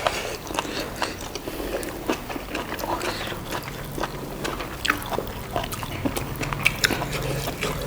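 Close-miked chewing and biting of buffalo innards: irregular wet mouth clicks and smacks.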